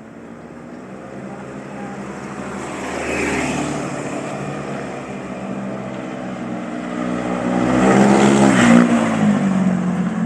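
Single-cylinder engine of a Honda Vario 125 scooter running through an ABF Racing Standar Racing V2 aftermarket exhaust on the road. The engine note swells twice, loudest near the end, then the pitch drops.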